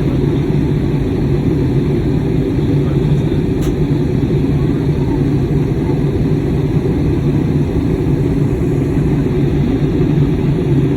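Steady low drone inside the cabin of an Airbus A320neo airliner: engine and airflow noise.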